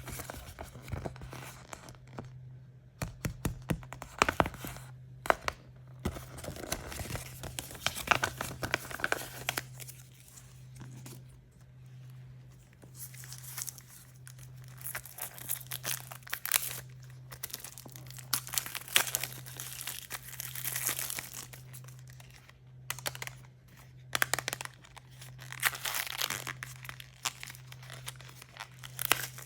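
Plastic and foil packaging being torn open and crinkled by hand, in irregular clusters of tearing, crackling and sharp clicks with brief pauses between.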